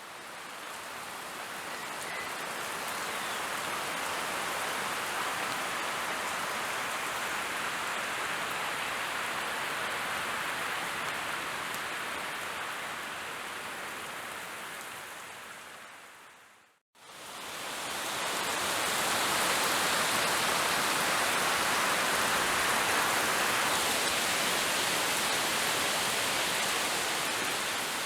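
Steady rain falling during a storm, a dense even hiss; it fades out about sixteen seconds in, stops for a moment, then fades back in a little louder.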